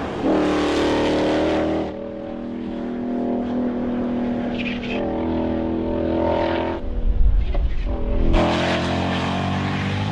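Ford Mustang GTD's 5.2-litre supercharged V8 revving and accelerating, its pitch rising and falling. It is loudest and harshest in the first two seconds and again from about eight seconds in, with a deep rumble just before the second burst.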